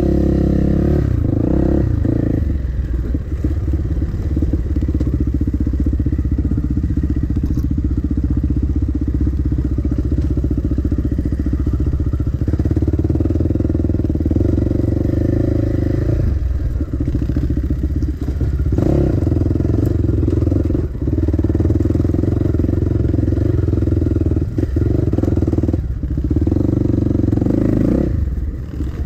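Dirt bike engine running hard under throttle, its note rising and falling, with brief dips every few seconds where the throttle is closed.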